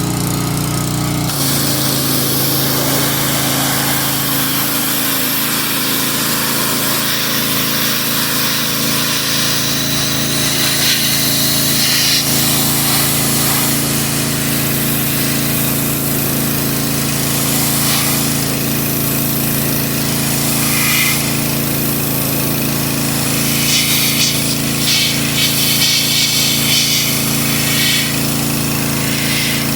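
Pressure washer's small petrol engine running steadily just after starting, settling to an even speed about a second in. The hiss of the high-pressure spray swells several times as the jet hits the panel.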